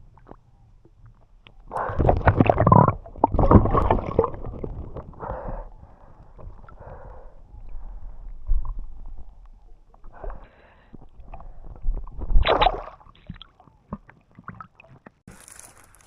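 Muffled underwater gurgling and bubbling picked up by an action camera in a river, coming in irregular bursts, loudest about two to four seconds in. Near the end a high hiss sets in.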